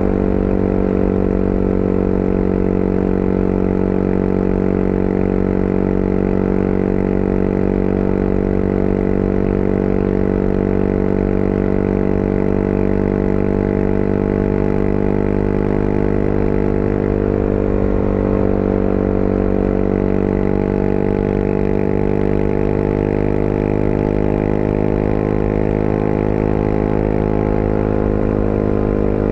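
Motorcycle engine running steadily at cruising speed. A little past halfway its pitch eases off slightly, then picks up again.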